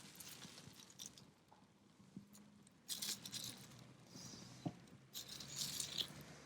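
Faint, irregular clinks and rustles of camp cookware being handled beside a small wood fire, in short clusters about three seconds in and again near the end, with one sharp click just before.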